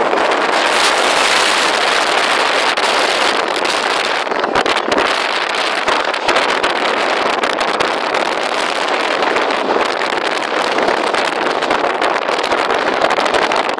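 Heavy rain pouring down in a dense, steady hiss, with wind buffeting the microphone.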